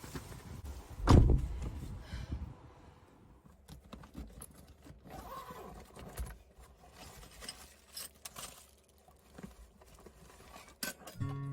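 A single heavy thump about a second in, followed by scattered light clicks, taps and rustles.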